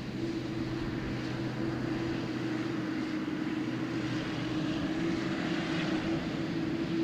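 Jet airliner's engines at takeoff power: a steady rushing noise with a held low hum, a little louder in the second half.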